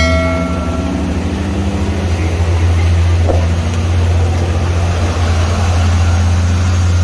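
Motor vehicle engine running with a deep, steady drone and road noise. A ringing tone at the very start fades out within about a second.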